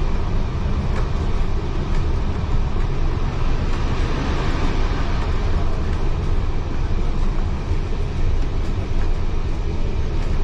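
Heritage railway carriage running along the track, heard from inside: a steady rumble of wheels on rail with a few faint clicks.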